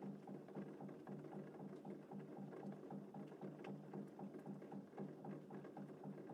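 Rain pattering steadily: a dense, irregular run of small drops, with no thunder.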